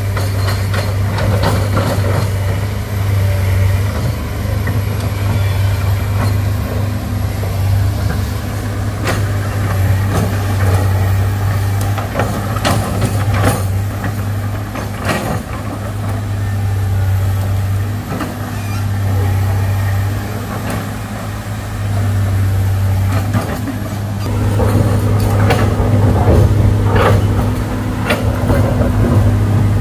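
Excavator's diesel engine running with a steady low drone while working hard rock, with irregular sharp knocks and scrapes, a cluster of them near the end.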